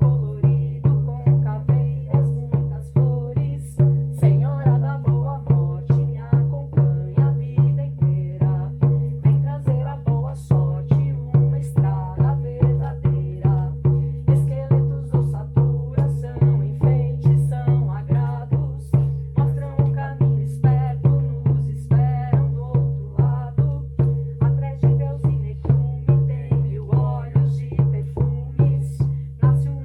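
Music: a steady percussion beat, a little over two strikes a second, over a low sustained drone.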